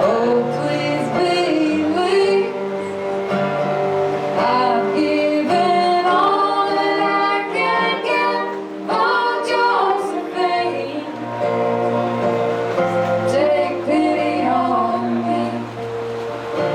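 Live folk string band playing, with female voices singing over acoustic guitar and strings.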